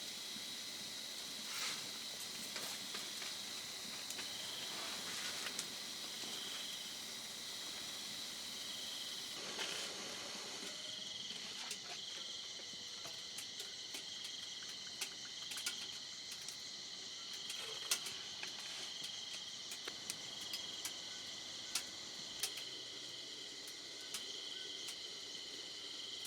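Crickets or similar night insects trilling steadily, with one high chirp pulsing about once a second, over a faint even hiss of rain or running water and scattered small ticks.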